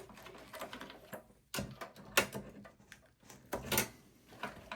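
Clicks and sharp knocks of power-supply cable connectors and their plastic latch clips being worked loose inside a desktop PC case. The loudest click comes about two seconds in, and there is another cluster near the end.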